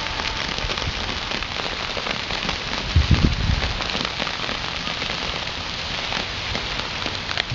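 Freezing rain in an ice storm, pattering and ticking densely and steadily on icy surfaces, with a few low thumps about three seconds in.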